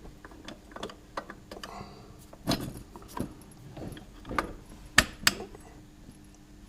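Light metallic clicks and clinks of hand work threading the choke pipe onto a Jaguar 3.8's carburettors, with two sharper knocks about five seconds in.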